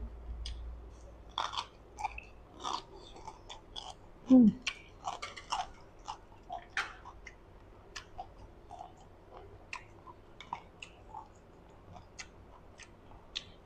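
Close-miked chewing of a crunchy pickled vegetable (rau tiến vua), with many short crisp crunches and wet mouth clicks, and a brief hum about four seconds in.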